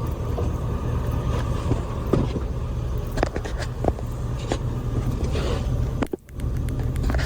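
1963 Buick Skylark's 215 cubic-inch aluminum V8 idling with a steady low rumble, with scattered light clicks over it and a brief drop in sound about six seconds in.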